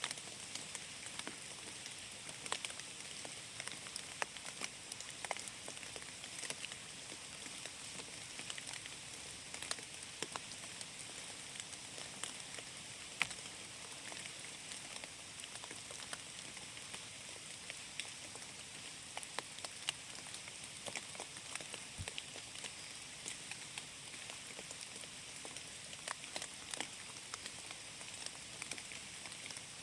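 Steady rain falling in a forest: a constant hiss with many separate drops ticking onto leaves and the forest floor.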